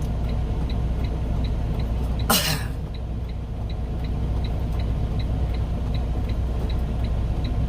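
Semi-truck's diesel engine idling in the cab, a steady low rumble with a light regular ticking about three times a second. A short, sharp burst of noise about two and a half seconds in.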